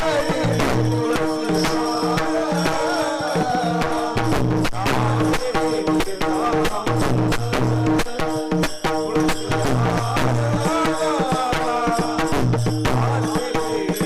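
Devotional kirtan music: a wavering melody over a steady two-note drone, with drums and small cymbals or rattles keeping a dense rhythm and repeated low drum strokes.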